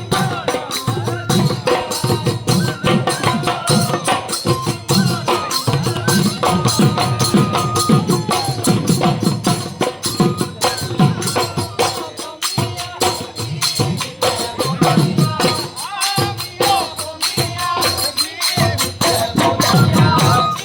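Lively folk dance music, Bihu-style, with fast, steady drumming and jingling cymbal-like percussion under a melody.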